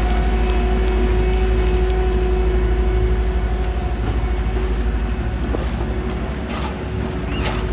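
Heavy diesel paving machinery running steadily up close: a deep rumble with a steady hum over it, easing slightly about six seconds in, with a couple of short hisses near the end.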